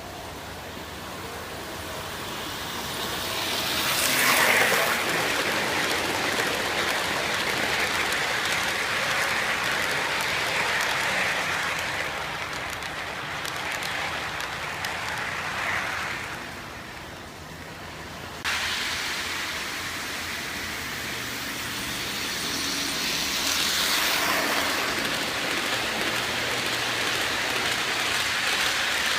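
Lionel Santa Fe model train running on its track: a steady whirring rumble of the motor and the wheels on the rails. It grows louder twice, about four seconds in and again near the end.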